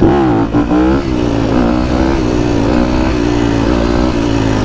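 A vehicle engine revving loudly. Its pitch sweeps up right at the start, then holds high, wavering up and down.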